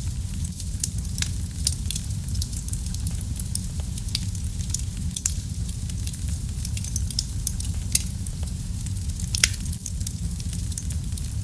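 Wood fire burning in a fireplace: a steady low rumble of the flames with frequent small crackles and pops, two louder pops at about 8 and 9.5 seconds in.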